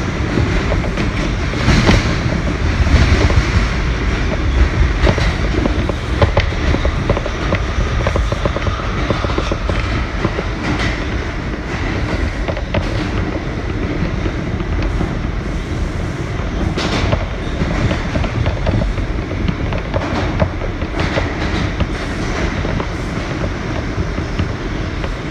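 R179 subway train running through the tunnel, heard from inside the car: a steady rumble of wheels on rail, broken by frequent clicks and knocks as the wheels pass over rail joints and switches.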